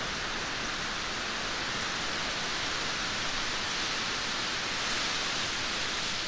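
Steady heavy rain, a dense even hiss with no single drops standing out.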